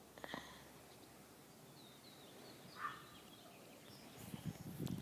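Faint birds calling in the background, with one louder call about three seconds in. Near the end comes the rustle and handling of a book's pages being turned.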